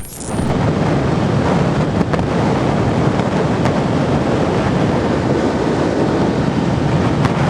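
Steady wind noise rushing and buffeting on the microphone.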